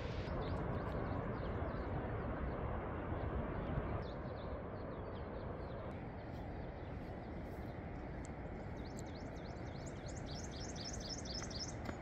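Birds chirping over a steady rushing background, with a quick run of repeated chirps near the end.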